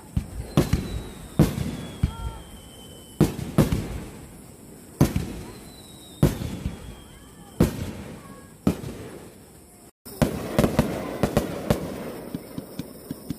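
Aerial fireworks bursting: sharp booms every second or two, each followed by a rolling echo, with a thin falling whistle twice. About ten seconds in, the sound cuts out for a moment and then returns as a quick run of crackling pops.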